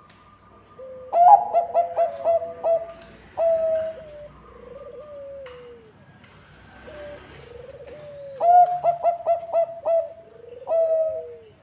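Bangkok-type zebra dove (perkutut) cooing. It gives two song bouts, each a quick run of short staccato notes followed by a few drawn-out, falling coos. The first starts about a second in, the second near eight and a half seconds.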